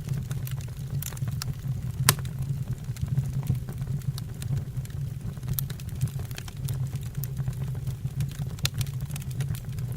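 Wood burning in a fireplace, crackling: a steady low rumble of flames with irregular small pops and snaps, one louder pop about two seconds in.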